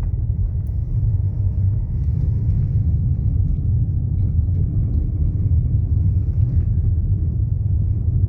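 Steady low rumble with no speech.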